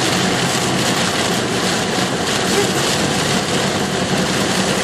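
Steady noise inside a moving car's cabin during a storm: a loud, even hiss of rain and wet road over a low engine hum.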